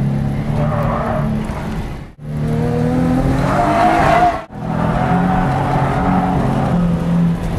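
Nissan 350Z drift car's engine revving hard under load while the rear tyres squeal and spin, heating the tyres for grip. The sound drops out abruptly twice for a split second, about two seconds in and again after four and a half seconds.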